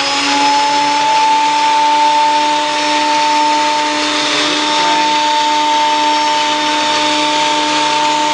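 Ryobi 10-inch surface planer's motor and cutterhead running free with no board fed: a loud, steady whine over a rushing noise. The pitch is still climbing as it finishes spinning up in the first second, then holds steady.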